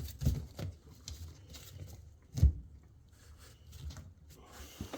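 A few knocks and clicks from parts of a front-load washer being handled and taken out, the loudest knock about two and a half seconds in.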